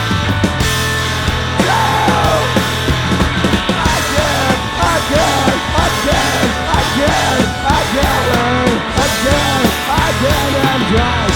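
Live rock band playing loud, distorted punk/grunge-style music, with a lead line of many quick bending notes over it.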